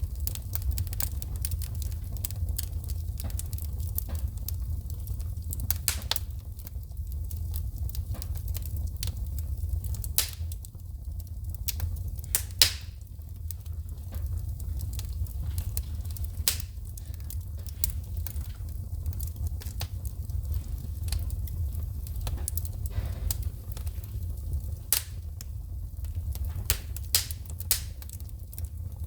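Wood fire burning in a fireplace, with irregular sharp crackles and pops as sparks shoot, over a steady low rumble of the flames. A few pops stand out louder, the strongest about twelve seconds in.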